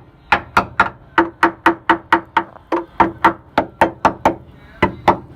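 Rapid hammer blows on rusted car body metal, about four strikes a second with a short break near the end, each giving a brief metallic ring: banging the loose rust out of a rotted section.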